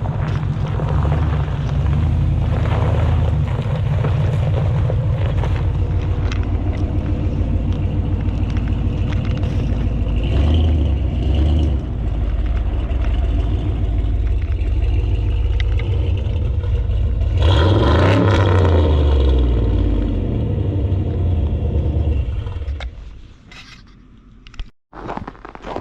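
A truck engine running with a deep, pulsing rumble, revving up about two-thirds of the way through, then dying away near the end.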